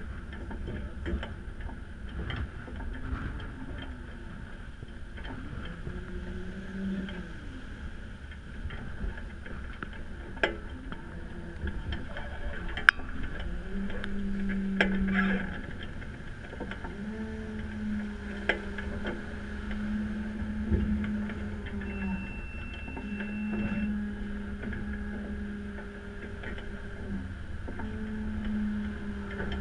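Wind and water rushing past a Lagoon 620 sailing catamaran running downwind in strong wind, with a low hum that sets in and drops out every few seconds and bends slightly in pitch as it starts and stops. A few sharp clicks and knocks.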